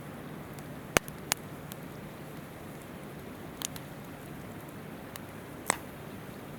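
Wood campfire crackling, with a few sharp pops, the loudest about a second in and near the end, over the steady rush of a river.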